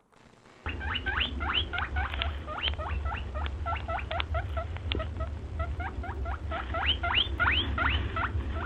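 Rapid, high squeaks from a small animal, each sweeping upward in pitch, several a second, over a steady low hum; they start about half a second in.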